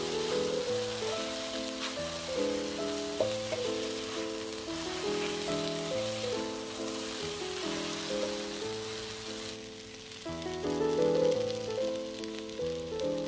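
Yam abacus seeds, mushrooms and cuttlefish sizzling in oil as they are stir-fried in a pan with a spatula, over background music with a steady melody; the sizzle drops away about ten seconds in, leaving the music.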